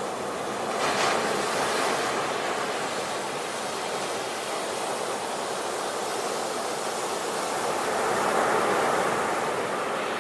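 Sea waves washing onto a shore, a continuous surf hiss that swells twice, about a second in and again near the end.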